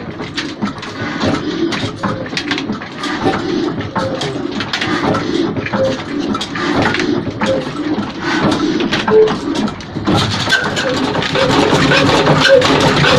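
Old diesel engine being started: irregular knocking and clatter at first, then from about ten seconds in a louder steady running noise as the engine picks up.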